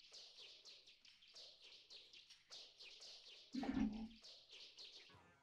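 Birds chirping quickly and steadily as background ambience, with a brief louder burst about three and a half seconds in. Music starts just before the end.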